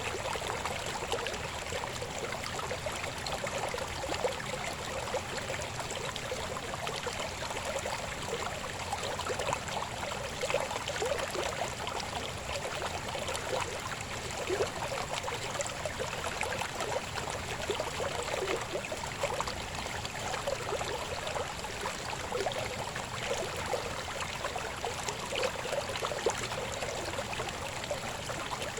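Shallow river babbling over stones, a steady rush of water dotted with small gurgles and splashes.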